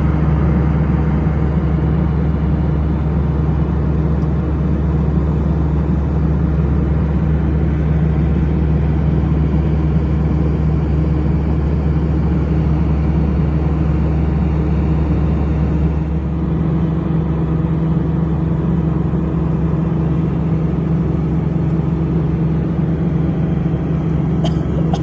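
Airliner engines heard inside the cabin: a steady low drone with a hum and a rushing noise. There is a slight change in engine tone about two-thirds of the way through.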